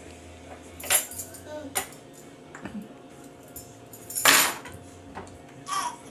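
A few light clicks and knocks, then a short, louder clattering rattle about four seconds in.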